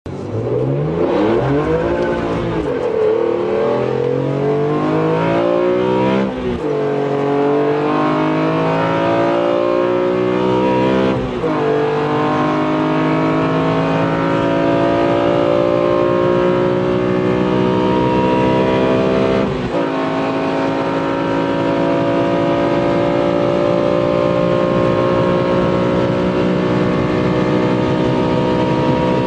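BMW M3 E46's 3.2-litre straight-six under full-throttle acceleration, its note climbing steadily in each gear. The pitch drops sharply at upshifts about six, eleven and twenty seconds in, and each higher gear climbs more slowly than the last.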